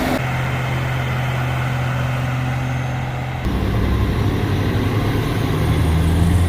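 Heavy equipment engines running steadily. About three seconds in the sound cuts abruptly to a louder, deeper engine note: the loaded dump truck's engine pulling.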